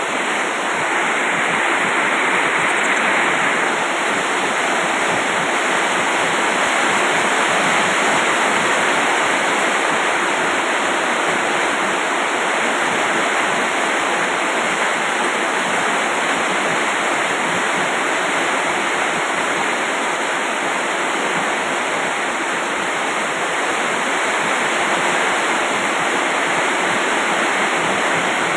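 Rain falling steadily in a downpour, an even rush of water with no breaks.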